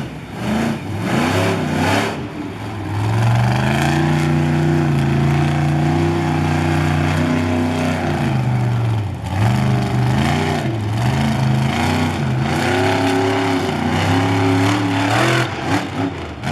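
Monster truck engine revving hard: its pitch climbs and holds high for several seconds, drops, then rises and falls in repeated surges of throttle.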